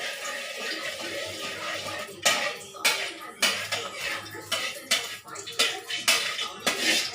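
Kitchen utensils and cookware clattering: a steady hiss at first, then sharp knocks about twice a second from about two seconds in.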